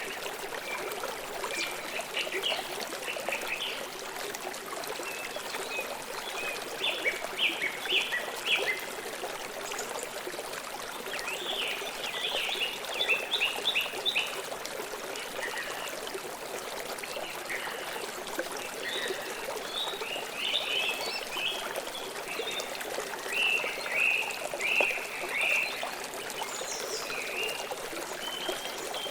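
Steady rush of flowing river water, with a bird chirping in short runs of quick high notes every few seconds.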